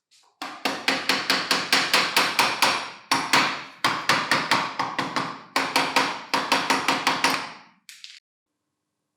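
Rapid hammer taps, about five a second, in several runs with brief pauses between them, each blow leaving a ringing tone.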